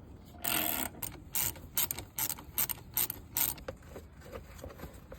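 Ratchet wrench clicking in short, irregular strokes, loosening the fasteners of a motorcycle's right-hand side fairing panel; the clicking thins out about three and a half seconds in.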